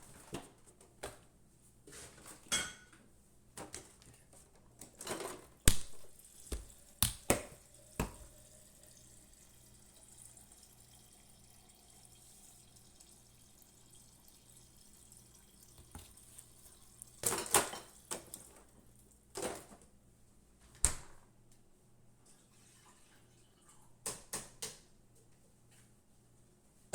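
Kitchen sink work: scattered clinks and knocks of dishes and utensils, with short bursts of running water from a tap, over a faint steady low hum.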